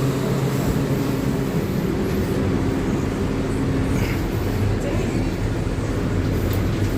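Subway train standing at the platform with its equipment running: a steady mechanical noise, with a low steady hum that drops away about half a second in.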